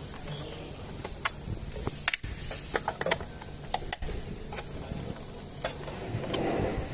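Irregular sharp clicks and taps over a low steady hum, with a brief hiss about two and a half seconds in.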